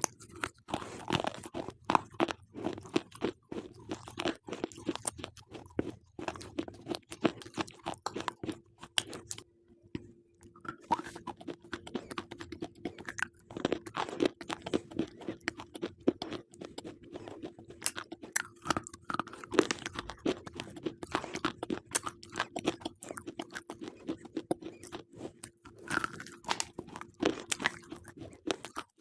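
Slate pencils being bitten and chewed close to the microphone: a dense run of sharp, dry crunches, pausing briefly about ten seconds in.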